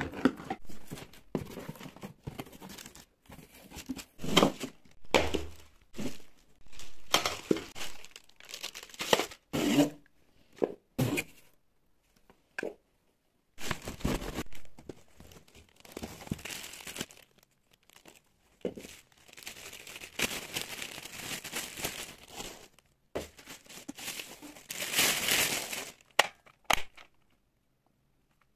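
A cardboard box and plastic packaging being opened by hand: tearing and plastic crinkling in irregular stretches with short pauses, the loudest and longest stretch near the end.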